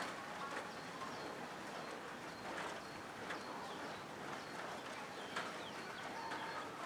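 Rain falling on a corrugated zinc roof: a steady patter with scattered single drops tapping a little louder, and short high chirps over it.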